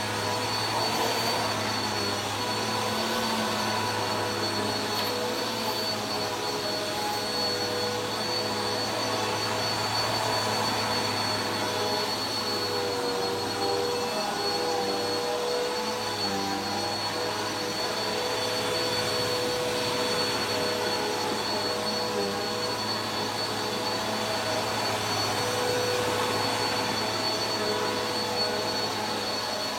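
Vacuum cleaner running steadily on carpet, a continuous rushing noise with a high whine; its pitch wavers slightly midway as it is worked over the carpet.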